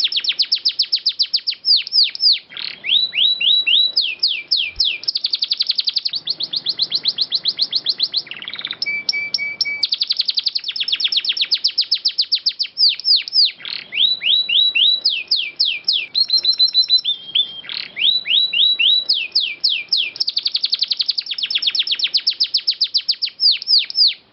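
Domestic canary singing a long, unbroken song of rolled trills: rapid runs of repeated downward-sweeping notes, with a brief held whistled note about nine seconds in.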